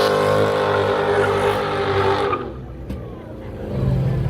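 A car's engine and exhaust running loud as it pulls past, its note sinking slightly before it drops away a little past halfway. Near the end another vehicle's low engine rumble comes up.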